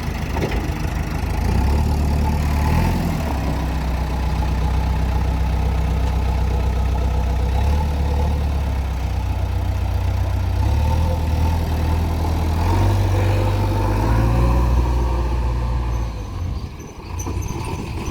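Heavy diesel engine of a working machine running steadily. Its low note steps up and down a few times as the throttle or load changes, then it eases off briefly near the end.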